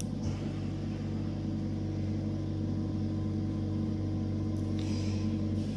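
Steady machine hum made of several held low tones, with a faint high rustle about five seconds in.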